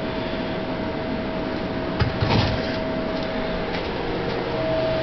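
Steady background hum with a faint high whine, broken by a single click and a short rustle about two seconds in.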